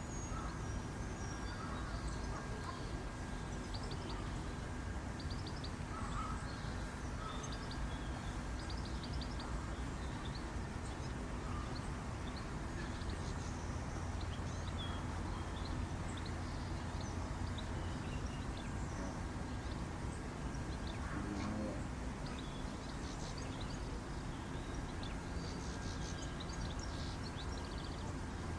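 Steady background hum with a faint constant high tone, and short faint high chirps scattered throughout.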